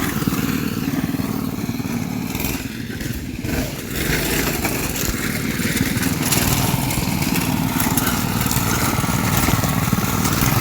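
Small gasoline engines running steadily on an off-road go-kart or minibike-class vehicle, easing off briefly around three seconds in and then picking back up.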